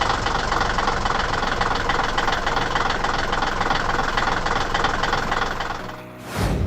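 Diesel engine of a heavy construction vehicle running with a dense, rapid knocking rattle. It drops away about six seconds in and gives way to a brief burst of noise.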